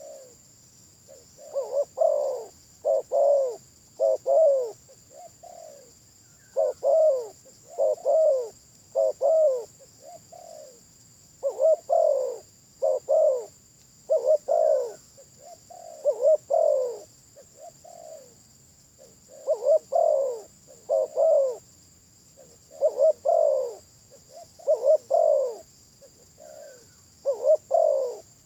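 Spotted dove cooing: phrases of three or four loud, rounded coos followed by a softer trailing note, repeated every four to five seconds. A steady high hiss runs underneath.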